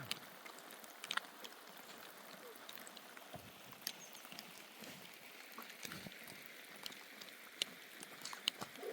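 Rain falling: a steady hiss with scattered sharp drips and taps.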